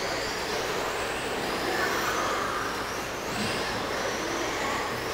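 Several 1/10-scale RC trucks racing, their motors whining and rising and falling in pitch over a steady noisy wash.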